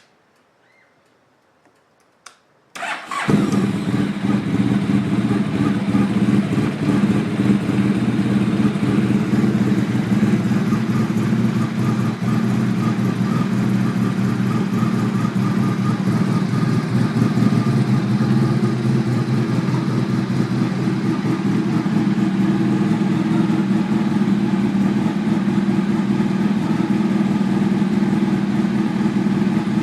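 2010 Honda VFR1200's V4 engine, fitted with a Werkes GP slip-on exhaust, is started about three seconds in after a brief click, then idles steadily.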